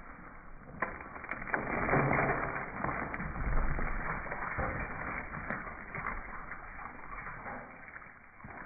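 Gray squirrel's claws scrabbling and scraping on a wooden bird feeder, played back in slow motion. Two sharp clicks come about a second in, then a rough scratching that is loudest between two and four seconds in and fades toward the end.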